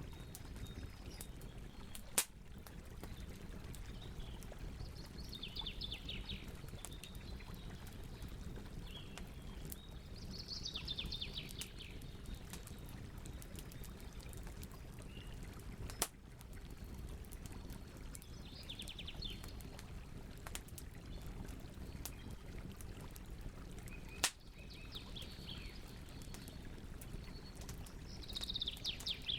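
Campfire burning with a steady low hiss, with three sharp loud pops from the wood. Over it a bird sings short, fast trills about five times.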